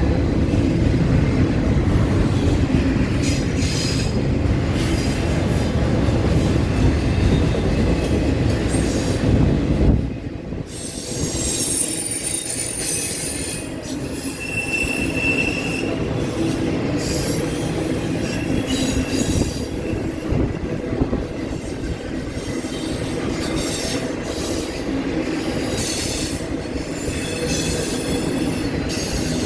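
Intermodal freight cars rolling past on a curve, with steel wheels squealing against the rail over a steady rolling rumble. The heavy low rumble drops off sharply about ten seconds in.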